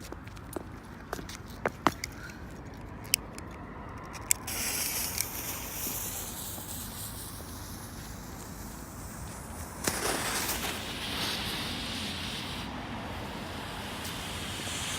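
Triple-vented red, white and blue smoke firework: a few sharp crackles, then from about four seconds in a steady hiss of smoke venting, which surges louder near ten seconds.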